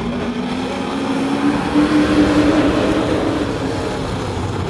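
Racing sport truck engines running at speed, one passing close about two seconds in, its engine note climbing as it approaches and then dropping as it goes by.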